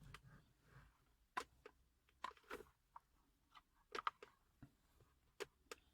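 Faint, scattered clicks and taps of small plastic car air-vent parts being handled and pried apart, a dozen or so at irregular intervals, with a small cluster about four seconds in.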